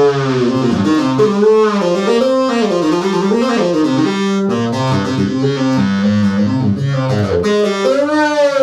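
Minimoog monophonic synthesizer holding a note while its pitch wheel bends it up and down in smooth, wavering glides. After that it plays a few steadier stepped notes, with one more bend near the end.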